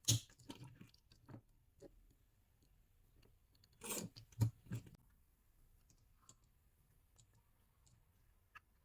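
Scattered plastic clicks and short rustles of handling, loudest right at the start and in a cluster about four seconds in.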